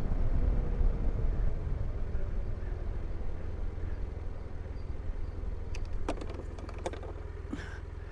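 Motorcycle slowing down and pulling over: the wind and engine noise fade as it rolls to a stop and the engine settles to idle. A few light clicks come near the end.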